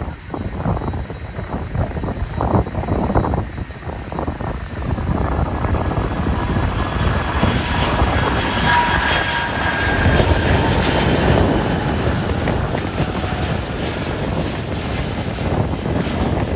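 Jet airliner's engines growing louder as it passes, with a high whine that slowly falls in pitch, loudest about two-thirds of the way in. Wind buffets the microphone at the start.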